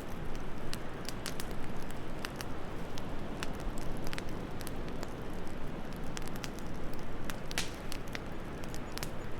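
Wood fire crackling in a fireplace, with irregular sharp pops and one louder pop near the end, over a steady low rumble of wind.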